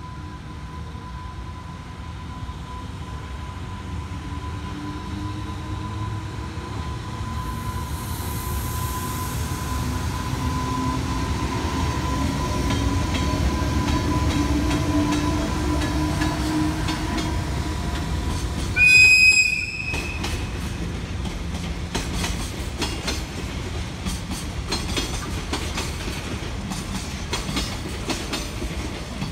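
EH500 electric locomotive hauling a container freight train past at close range, its rumble growing louder with a steady whine and slowly rising motor tones. A loud horn blast of about a second sounds about two-thirds of the way in. After it, the container wagons' wheels click rhythmically over the rail joints.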